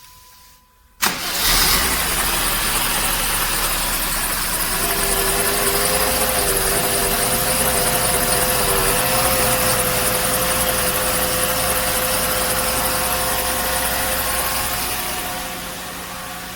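Mercedes-Benz W124 E320's 3.2-litre straight-six engine starting about a second in, then running at a raised idle, with a pitched whine for a few seconds in the middle. The revs settle lower near the end.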